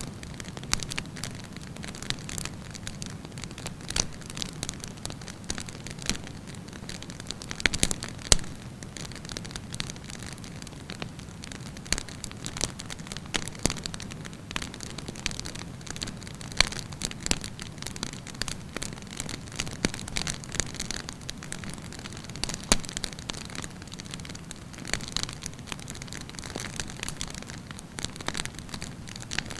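Wood campfire burning: irregular sharp crackles and pops over a steady low rumble of flames, with a cluster of louder pops about eight seconds in.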